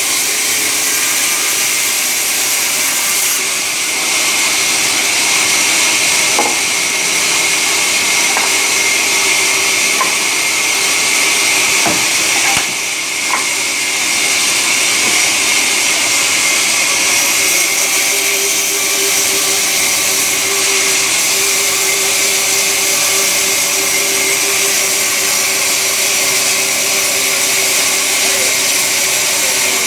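Sawmill saw running with a loud, steady hiss and a faint steady hum underneath, dipping briefly about thirteen seconds in.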